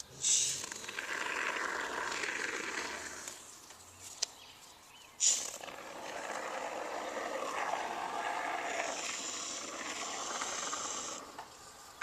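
A can of Great Stuff expanding spray foam being sprayed in two long bursts, a short one and then one about six seconds long. Each burst opens with a sharp hiss. There is a brief click between the bursts.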